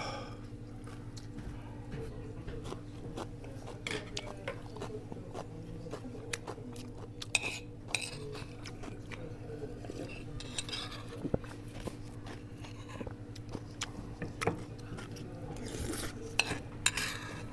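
Spoon and chopsticks clinking against bowls and dishes during a meal, in scattered light clicks with a few brief louder bursts. A steady low hum runs underneath.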